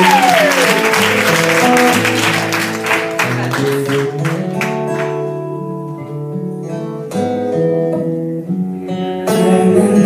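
Recorded song's acoustic guitar intro, slow picked notes ringing out before any singing, with a rustle of clapping and noise over the first few seconds.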